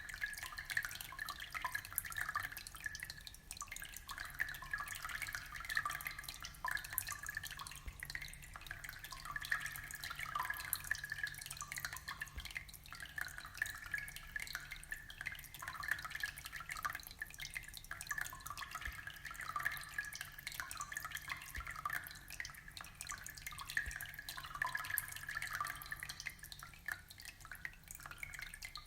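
Aquarium water trickling and bubbling: a steady stream of small drips and gurgles with no change in pace.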